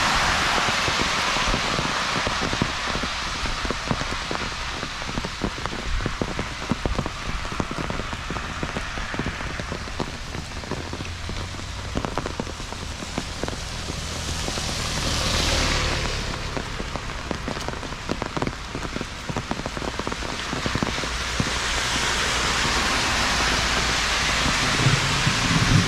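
Rain falling on a street: a steady hiss with dense pattering of drops. The noise swells briefly about two-thirds of the way through.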